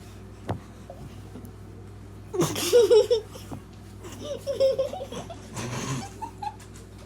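Kids laughing and giggling in bursts, starting about two and a half seconds in, after a single click.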